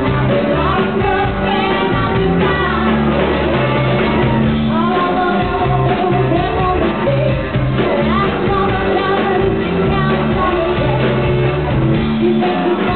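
Live band playing a rock song with a singer: steady bass notes under guitar and a sung melody line, heard through a dull, muffled recording.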